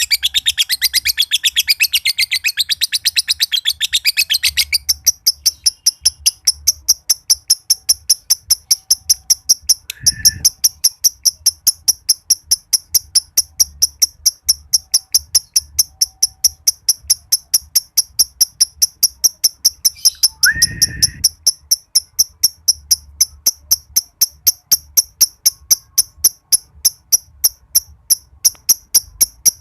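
Green (josan) lovebird calling: for about the first five seconds a dense, rapid chattering trill (the 'ngekek'), then a steady run of short high chirps at about four a second. Twice, briefly, a lower call cuts in.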